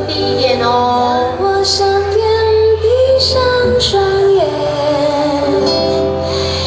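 A chorus singing a song over a recorded musical backing track, with a female voice standing out. The melody moves in sustained, held notes.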